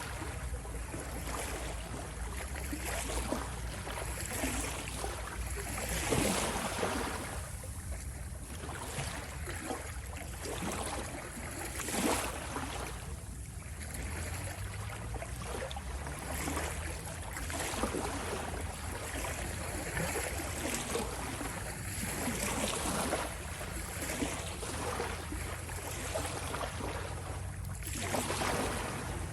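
Ocean waves washing in continuously, with a louder rush of surf every five or six seconds over a steady low rumble.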